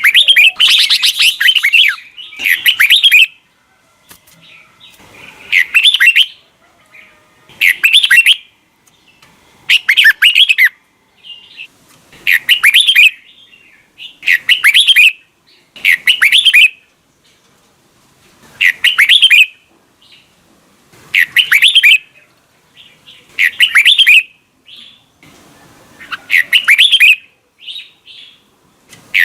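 Red-whiskered bulbul singing loud, short warbling phrases, one roughly every two seconds with brief pauses between.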